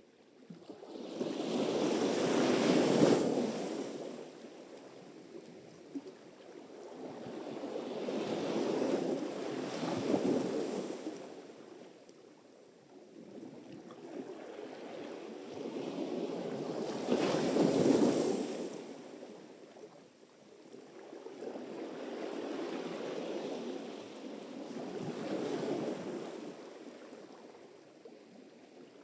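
Sea surf: waves breaking and washing up the shore, four swells in turn, each building for a few seconds and then fading.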